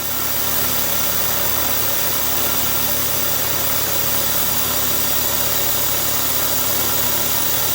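A compressed-air blow gun giving a steady loud hiss as it blows chips off a milling cut, over the milling machine's spindle running. The hiss cuts off suddenly at the end.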